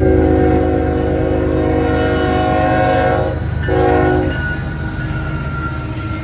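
Diesel freight locomotive's air horn sounding a long blast of about three seconds, then a short blast about half a second later, over the steady low rumble of the locomotive's engine.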